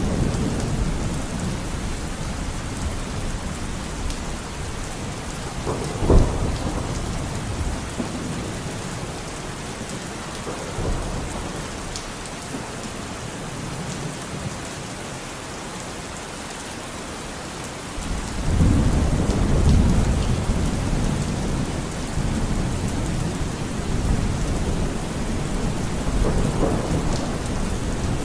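Steady rain falling with thunder rumbling: a sharp crack about six seconds in, and a heavy low rumble swelling up about two-thirds of the way through and rolling on to the end.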